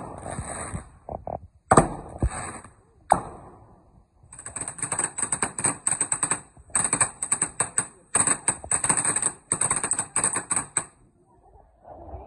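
Fireworks going off: a few sharp bangs, then about six seconds of rapid crackling pops, many to the second.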